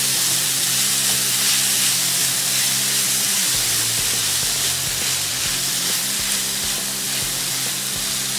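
Chopped spinach sizzling in butter in a hot nonstick pan while a spatula stirs it, a steady frying hiss as the leaves wilt.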